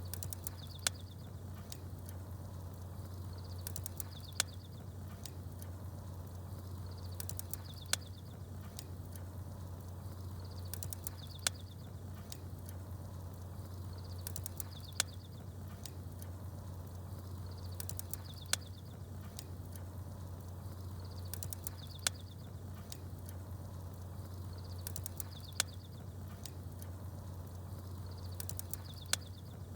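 Campfire crackling with a sharp pop about every three and a half seconds, and small birds chirping in short high bursts, the pattern repeating at an even spacing like a loop, over a steady low hum.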